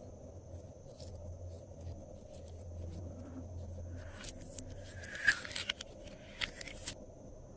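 Glossy slime being handled and mixed, with scattered sticky clicks and crackles; a few louder pops come in the second half.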